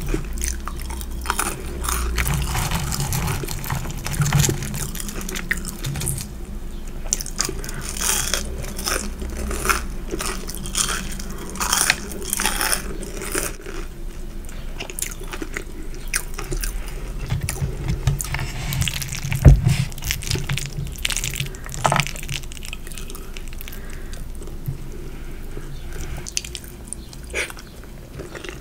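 Close-miked eating sounds: crunchy bites and wet chewing of food, the crackling dense over the first half and sparser later. A single sharp knock about two-thirds through is the loudest moment.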